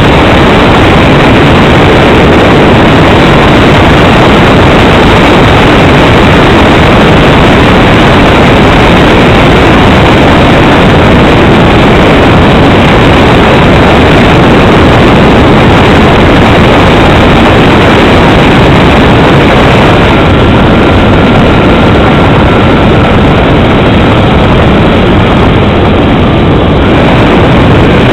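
Cessna 310's engines and airflow as loud, steady noise on an onboard microphone during the landing, with a faint whine that slowly falls in pitch about two-thirds of the way through.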